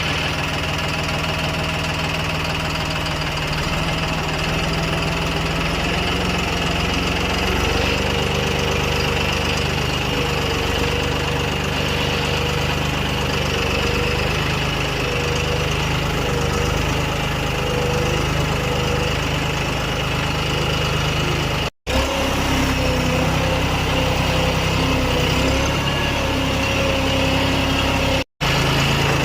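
A small motor runs steadily, a tractor-like engine hum with no change in speed. It cuts out for an instant twice, late on.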